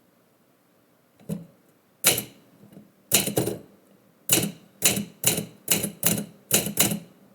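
Typewriter keys struck slowly one at a time, a light tap and then about ten sharp strikes, some in quick pairs. The typing is dry typing, pressing the letters into the paper without ink.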